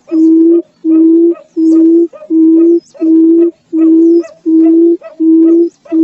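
Barred buttonquail's call: a long, even series of short, low hoots, each about half a second long, about eight in six seconds at a steady pace.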